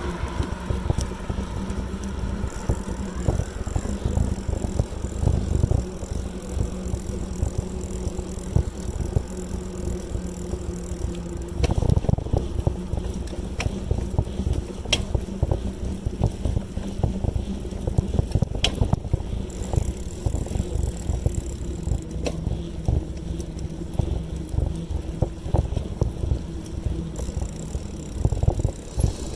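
Bicycle in motion: a steady, uneven low rumble of tyres and frame on the road, with scattered clicks and rattles.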